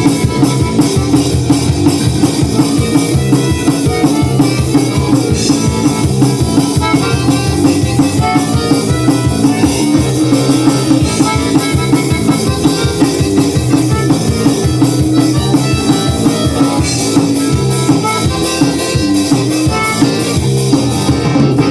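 Instrumental band music with a drum kit keeping a steady beat, the intro of the song before the vocals come in.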